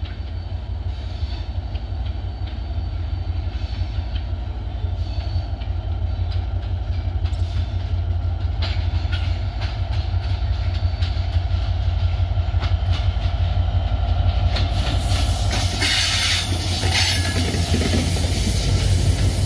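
Diesel locomotive hauling a train of LHB passenger coaches approaches with a low rumble that slowly grows louder. About fifteen seconds in it passes close by, and a loud rush and clatter of wheels on the rails joins in.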